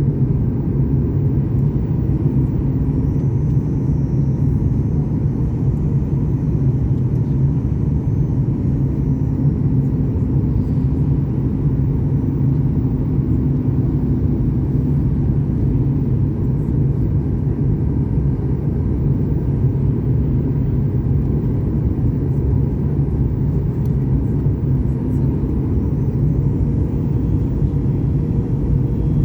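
Steady low rumble of airflow and engine noise inside the cabin of a Boeing 737 MAX 8 airliner on descent toward landing. Its CFM LEAP-1B turbofans are at approach power, and the drone is even, with no changes.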